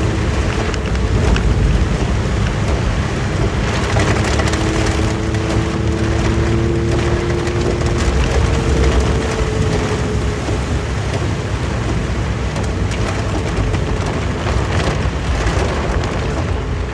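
Heavy rain and road noise while a Suzuki Jimny SJ30 is driven, its small three-cylinder two-stroke engine running underneath; a steady engine note stands out for a few seconds in the middle.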